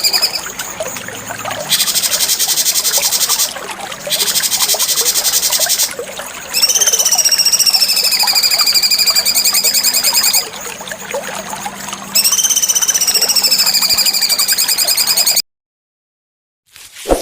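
Cucak cungkok bird song: long, high whistled notes that dip and rise again, alternating with rapid, dense buzzing trills. The song cuts off suddenly near the end.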